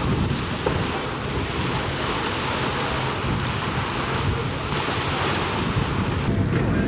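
Wind buffeting the microphone over the steady wash of sea water, a continuous rushing noise with a heavy low rumble.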